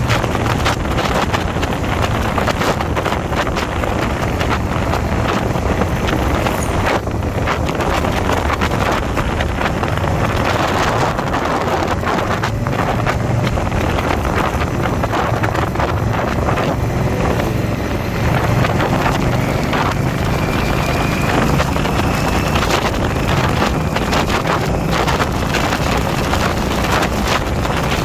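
Motorcycle riding at a steady speed: wind rushing over the microphone over the low, even running of the engine.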